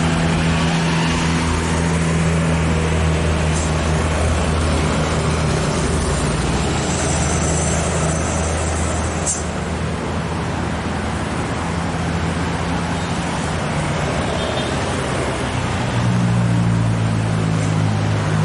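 Heavy truck's diesel engine running hard under load up a steep climb, a steady low engine note with road noise; the engine note steps up in pitch near the end.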